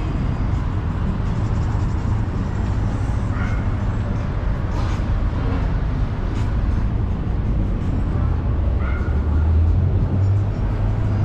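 City street ambience: a steady low rumble of traffic with a few faint voices, and a low hum that grows louder near the end.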